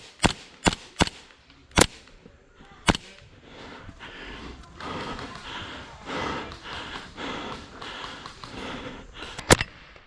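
Airsoft guns firing: single sharp shots, five in the first three seconds and a quick pair near the end, with indistinct voices in the middle.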